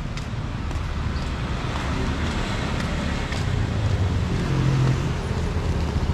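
Street traffic: a motor vehicle engine rumbles past close by and is loudest about four to five seconds in.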